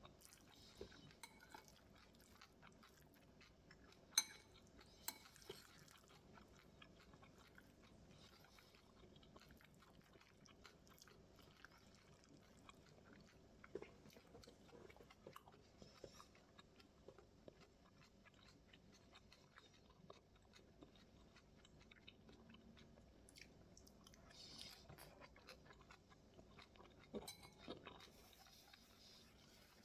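Quiet, close chewing of a mouthful of bibimbap (rice and vegetables), with small wet mouth clicks and a few sharper clicks scattered through.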